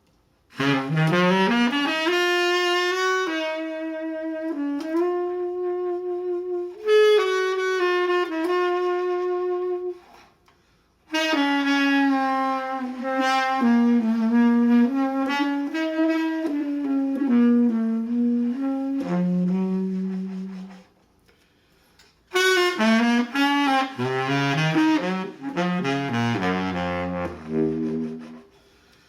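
Solo saxophone playing slow, sustained melodic phrases: three phrases broken by short pauses, the last one dropping to low notes near the end.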